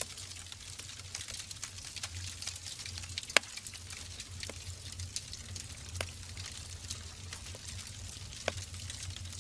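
Wood fire burning in a fireplace: a steady hiss and low rumble of the flames with frequent small crackles and a few sharper pops, the loudest about three and a half seconds in.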